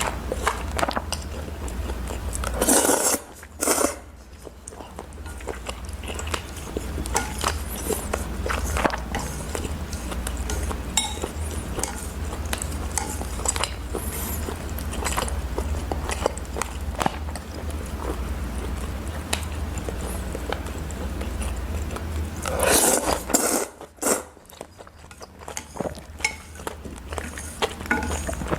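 Close-miked eating: chewing and biting, with small clicks of utensils against dishes. Two louder noisy bursts, each about a second long, come near the start and near the end, over a steady low hum.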